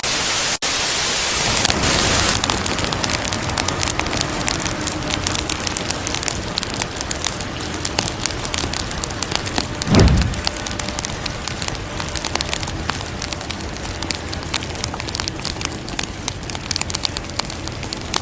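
Wood fire burning in a fire pit, crackling and popping steadily. A brighter hiss runs for the first two seconds or so, and there is a brief low whoosh about halfway through.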